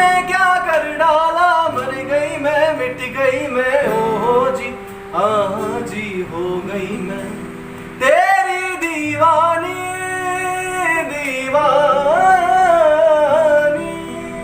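Male voice singing long, ornamented melodic phrases with wavering held notes over steady instrumental accompaniment, with a few short pauses between phrases; the music fades down near the end.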